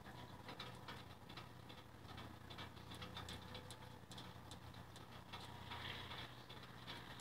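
Faint, scattered raindrops ticking irregularly near the microphone over a low steady hum, with a soft hiss building near the end.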